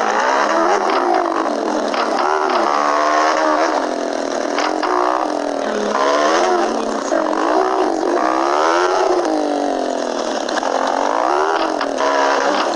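Motorcycle engine running under way, its pitch climbing and then dropping back several times as it accelerates and eases off.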